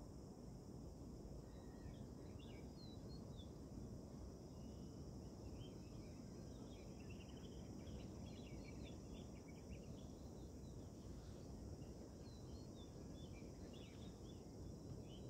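Faint birds chirping and twittering, thickest about halfway through and again near the end, over a steady low background rumble.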